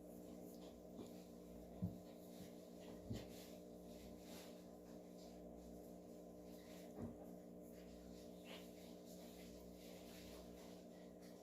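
Near silence: a steady low hum with a few faint knocks, the clearest about two seconds in, from handling.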